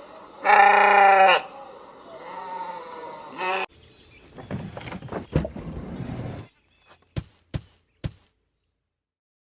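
Sheep bleating: one loud wavering bleat about half a second in, then a weaker second bleat, followed by rustling with knocks and three sharp clicks near the end.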